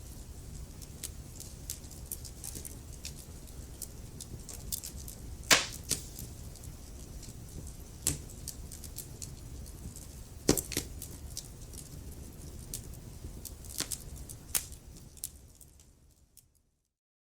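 Wood fire crackling in a fireplace: a low steady rumble of burning with scattered sharp pops, the two loudest about five and ten and a half seconds in. Near the end the sound fades out into silence.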